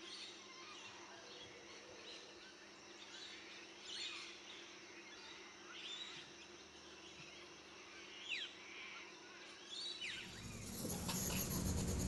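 Faint outdoor ambience with scattered short bird chirps, several of them quick falling whistles. Near the end a louder, noisier background with a few clicks comes in.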